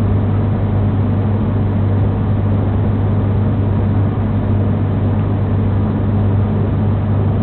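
A TransPennine Express diesel train heard from inside the passenger cabin while running at speed: a steady low drone from the engine, with rumble from the wheels on the track.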